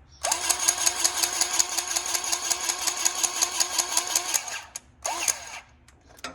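Powered grease gun running, its motor-driven pump pulsing rapidly, about seven strokes a second, as it pumps grease into a fitting for about four seconds. It stops, then gives one more short burst about five seconds in.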